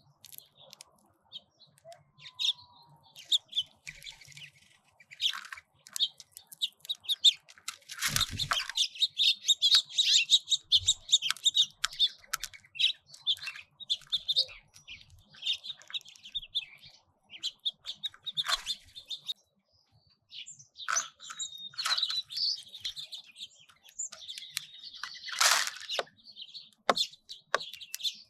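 Small finches chirping and twittering at desert feeders, in busy bursts broken by short lulls, with sharp taps scattered through and a thump about a third of the way in.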